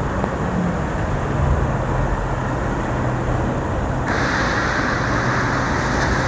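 Road noise while cycling in heavy rain: a steady wash of rumble and traffic, with a low vehicle engine hum. At about four seconds a louder hiss of tyres on wet road comes in.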